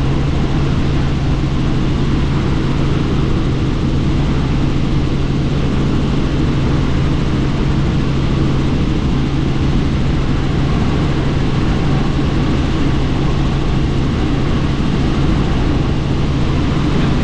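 Helicopter in steady flight, heard on board: continuous rotor and engine noise with a strong, steady low drone.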